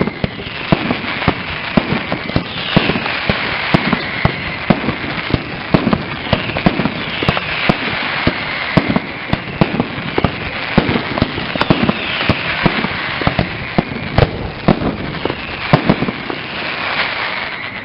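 Castillo fireworks display: a dense, continuous crackle with sharp bangs several times a second, and whistles that fall in pitch, one every second or two.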